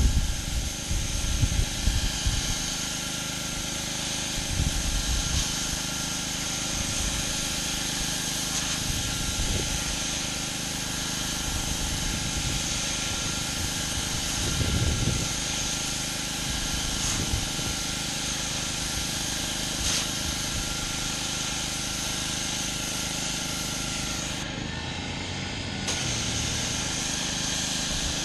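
Gas-engine pressure washer running steadily while its high-pressure water jet hisses against concrete. The hiss cuts out briefly near the end, then comes back.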